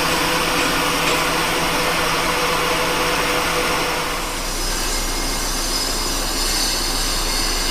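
Metal lathe turning a steel shaft on a light roughing cut about 150 thousandths deep: a steady machine hum under a hissing cutting noise. The low hum changes about four seconds in.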